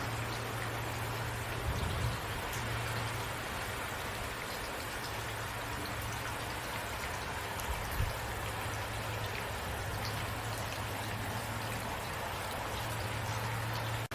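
Steady rain falling, an even hiss of drops, over a steady low hum. Two soft low thumps come through, about two seconds in and again about eight seconds in.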